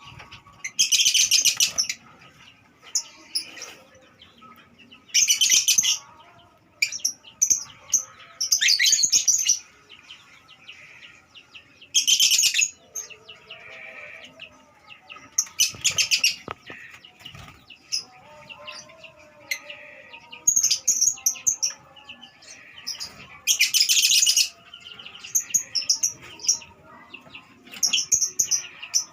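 Lovebirds calling: shrill, high-pitched chattering bursts of about a second, some eight of them spaced a few seconds apart, with quieter chirps in between.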